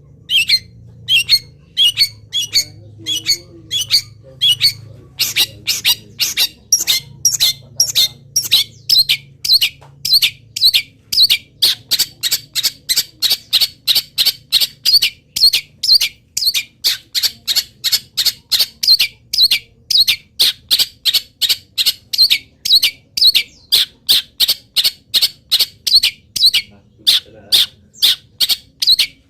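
Long-tailed shrike (cendet) calling in a long unbroken series of short, sharp calls, about one and a half a second at first and quickening to about two and a half a second after some ten seconds.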